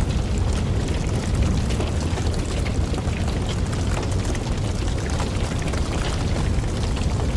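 Wood campfire burning: a steady low rumble of flames with frequent sharp crackles and pops from the burning logs.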